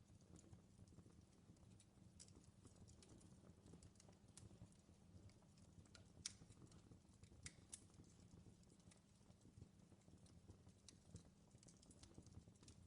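Faint crackling of a wood fire in a fireplace: scattered pops and snaps over a low steady rumble, with a few sharper snaps about halfway through.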